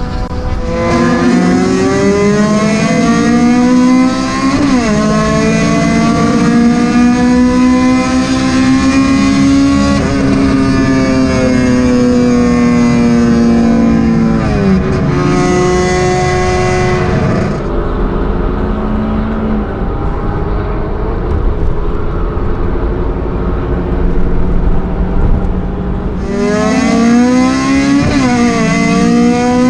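Car engine heard from inside the cabin under hard acceleration, its pitch climbing through each gear and dropping at upshifts about five, ten and fifteen seconds in. It then holds a steadier, lower note before pulling hard and climbing again near the end.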